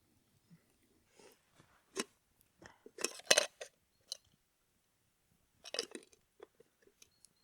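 Short handling noises: a scatter of clicks, light clinks and rustles, loudest in a cluster about three seconds in and again near six seconds.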